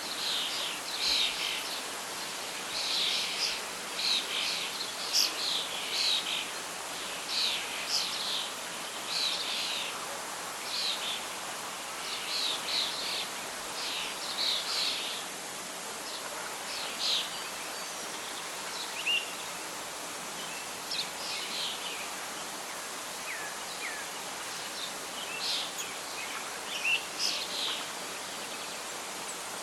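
Birdsong over a steady background hiss of wind and leaves: short, repeated high chirps from small birds, busy in the first half and thinning out later.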